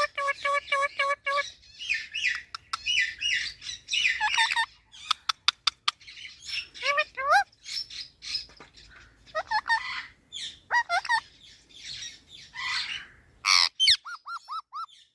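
Pet talking parrot chattering nonstop: a fast run of repeated short whistled notes, squawks and rising whistles, with a quick series of sharp clicks in the middle and a row of short repeated notes near the end.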